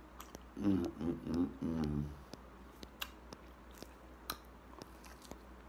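A man eating: a drawn-out hum of enjoyment without words from about half a second in to about two seconds, then chewing and lip-smacking with scattered small clicks.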